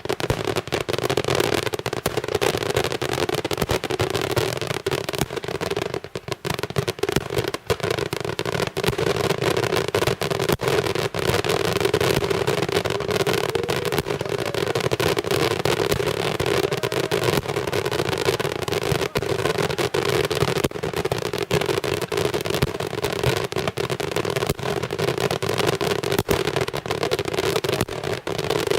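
Daytime fireworks barrage: a dense, unbroken volley of rapid firecracker bangs with no pauses.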